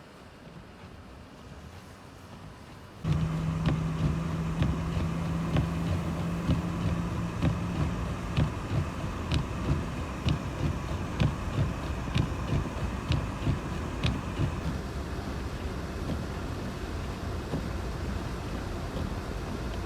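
Vehicle driving in a snowstorm: steady road and engine noise that starts abruptly about three seconds in, with a low hum that stops about halfway through and a regular knock about once a second that fades out.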